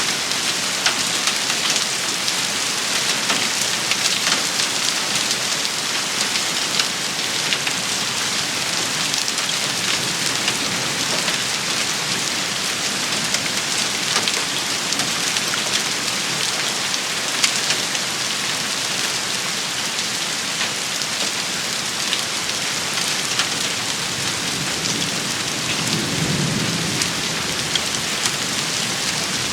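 Heavy rain shower falling steadily, a dense hiss full of fine ticks from drops striking a surface. A brief low rumble comes in near the end.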